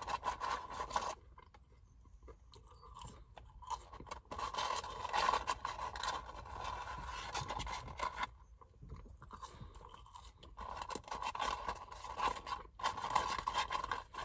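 A person chewing fast food close to the microphone: crunchy, crackly mouth sounds in three spells, with quiet pauses after about the first second and again around eight to ten seconds in.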